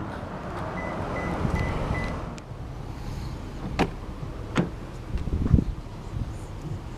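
2001 Lexus GS300's 3.0-litre inline-six being started: the starter cranks for about two seconds while a chime beeps four times, then the engine settles into a quieter steady idle. Two sharp clicks and a thump follow a few seconds later.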